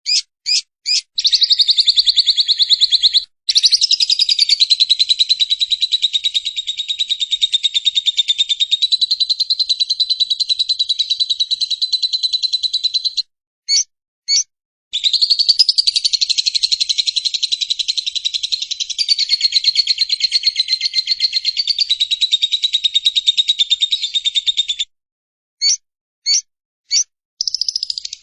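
Lovebird 'ngekek': long, rapid chattering trills of many sharp notes a second. A few single chirps lead into a trill lasting about ten seconds. A short break with two chirps is followed by a second ten-second trill, and then more chirps and a third trill starting near the end.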